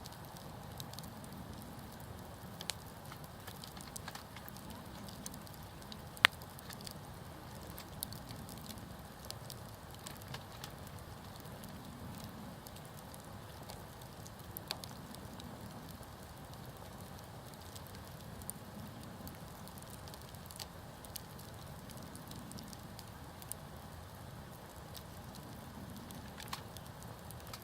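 Wood campfire burning: a steady low rush of flames with scattered sharp crackles and pops, one louder pop about six seconds in.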